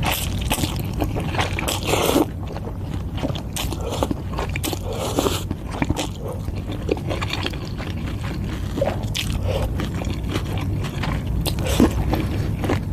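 Close-miked eating sounds: a person chewing noodle soup, with many short, irregular wet mouth clicks and smacks over a steady low hum.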